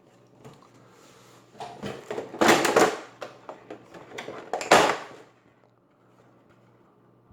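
Drone box contents being handled and unpacked: rustling, scraping and a few knocks, loudest about two and a half seconds in and again near five seconds.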